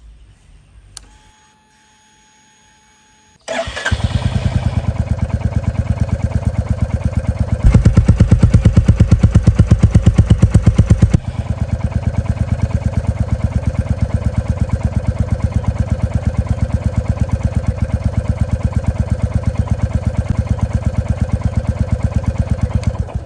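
Royal Enfield Bullet 350 single-cylinder engine starting after a few quiet seconds, then running at a slow, even beat. It gets louder for about three seconds with the throttle held open a little, settles back to idle, and is switched off right at the end.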